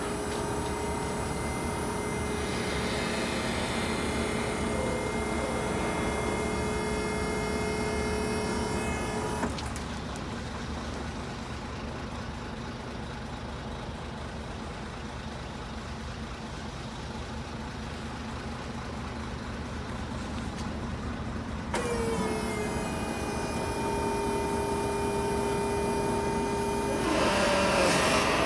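Isuzu Forward truck's diesel engine running steadily, with a steady whine over it. The whine and the higher part of the sound stop about ten seconds in, return with a short glide at about twenty-two seconds, and the sound grows busier near the end.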